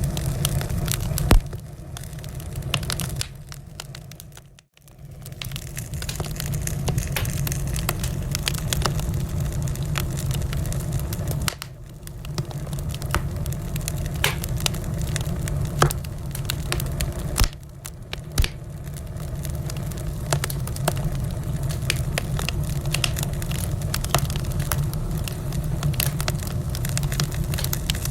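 Wood fire burning: a steady low rumble of flames with frequent sharp crackles and pops. The sound drops away almost to nothing for a moment about four and a half seconds in, then returns.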